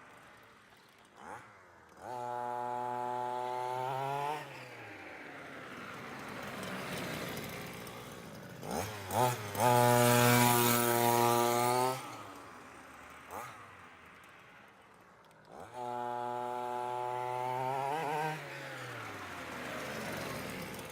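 Small two-stroke petrol engine of a large-scale RC monster truck, revved to a steady high pitch three times for about two seconds each. Each time the pitch falls away as the throttle is released, with quieter running in between.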